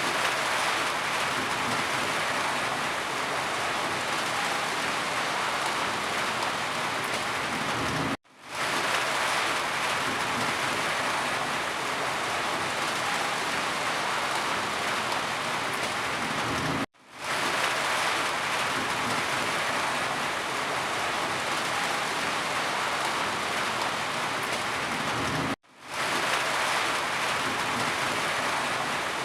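Steady rain falling, a dense even hiss. About every nine seconds the sound cuts out for an instant and fades back in: the seam of a looped rain recording.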